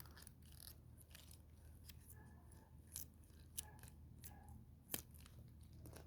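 Scissors snipping through a silicone pop-it fidget toy: faint, a few short sharp snips, the clearest about three and a half and five seconds in.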